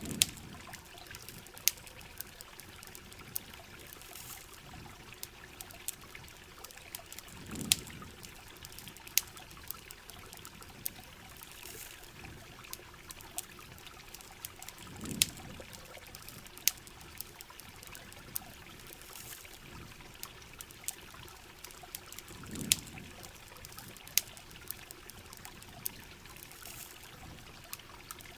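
Steady rain with trickling water, and a campfire crackling in sharp, irregular pops. A soft low whoosh comes about every seven and a half seconds.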